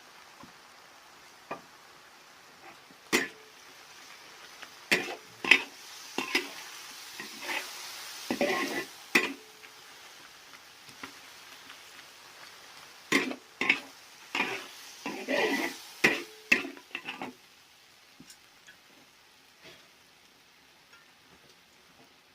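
A spatula scrapes and knocks against a pan as pork and napa cabbage are stir-fried, over a soft sizzle. The strokes come in two busy spells, then die away to a few faint ticks near the end.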